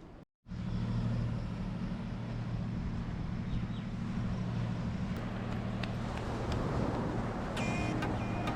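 Honda Africa Twin motorcycle engine running steadily while riding, a low even hum with road and wind noise. It cuts in abruptly just after the start, and a few light clicks come near the end.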